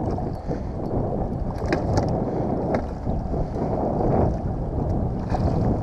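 Wind buffeting the microphone, a steady low rumble, with a few small clicks over it.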